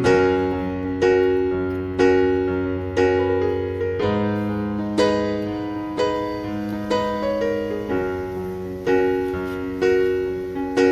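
Slow, gentle solo piano music: soft chords struck about once a second, each left to ring and fade over held bass notes.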